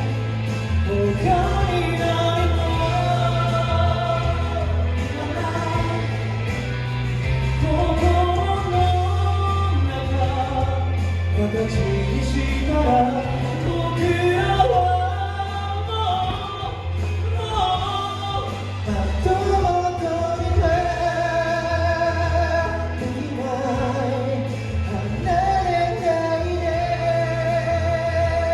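Live song: a singer's voice carries a melody over backing music with a steady low bass line.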